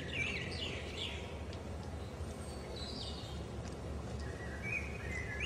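Small birds chirping off and on, a cluster of quick chirps at the start, another around three seconds in and more near the end, over a steady low background hum.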